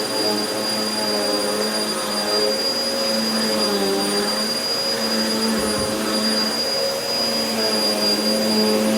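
Vacuum cleaner running steadily on carpet: a continuous motor hum with a high, steady whine, its pitch wavering slightly now and then.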